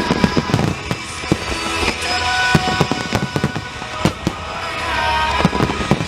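A fireworks finale: many shells bursting and crackling in quick succession, with music playing under the bangs.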